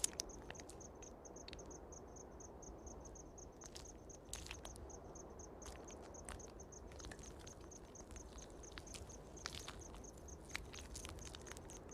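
Faint insect chirping, an even train of high chirps about four to five a second, with scattered small clicks and rustles.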